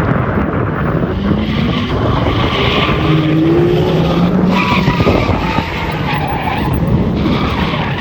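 Rally car on a stage, its engine revving hard with the note climbing and then holding, over a steady hiss of tyres on the surface.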